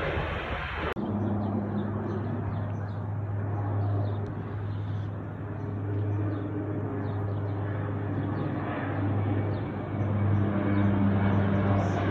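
An aircraft engine drones steadily with an even low hum, starting abruptly about a second in after a moment of wind-like noise.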